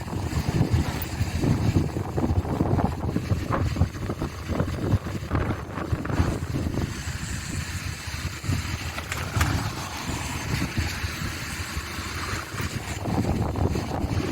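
A train rolling past as a steady low rumble, with wind buffeting the microphone.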